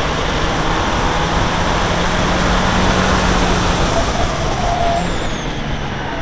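Seat Leon Cupra R's turbocharged four-cylinder engine under load on track, heard through heavy wind and road roar. The engine note climbs until about four seconds in, then falls away as the car slows for a corner.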